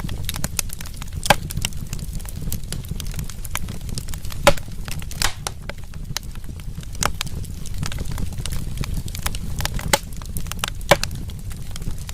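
Wood fire in a fireplace crackling, with irregular sharp pops over a steady low rumble of burning; the loudest pop comes about four and a half seconds in.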